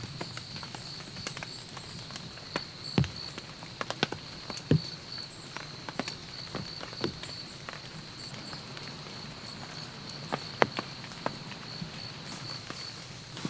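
Irregular light taps and knocks, scattered and uneven, over a faint high chirp repeating about twice a second.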